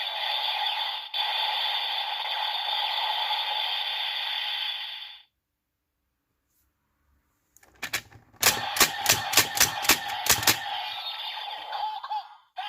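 Electronic sound effects from a Kamen Rider Ghost transformation toy's small speaker. A thin sound without bass runs for about five seconds and stops. After a short pause, a rapid run of about nine sharp bangs, like gunfire or explosions, follows over two seconds.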